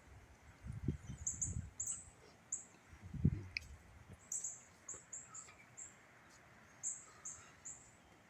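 Birds chirping in short, high notes, several in quick runs, with gusts of wind buffeting the microphone in low rumbles, the strongest about three seconds in.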